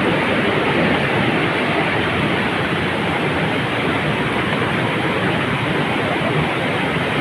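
Water rushing steadily from a spring-fed cascade, a loud continuous noise that does not change.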